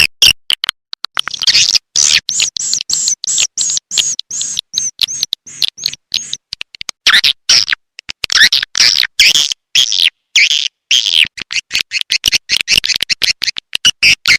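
Swiftlet calls played as a lure sound for swiftlet houses: fast, high chattering chirps and clicks, with a run of quick, repeated arching notes a couple of seconds in.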